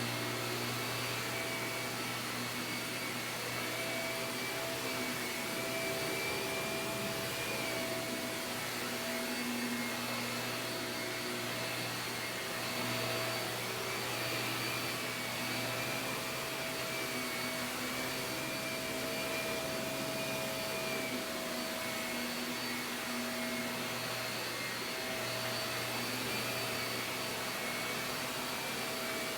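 Shark vacuum cleaner running continuously over carpet, a steady motor whine whose pitch and strength waver slightly as it moves.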